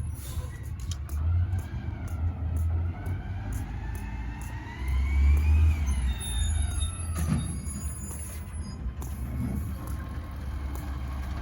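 Garbage truck engine running with a low rumble, under a whine that rises in pitch, peaks and grows loudest about halfway through, then falls away. A few knocks follow.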